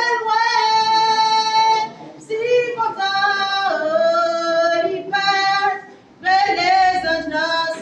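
Voices singing a Creole gospel song in long, held phrases that slide between notes, with short breaths between phrases about two seconds in and again about six seconds in.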